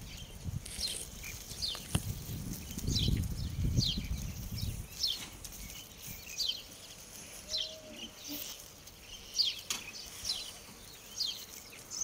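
A small bird calling over and over: a short, high chirp that slides down in pitch, roughly once a second. A low rumble sits under it for the first five seconds, with a couple of sharp clicks.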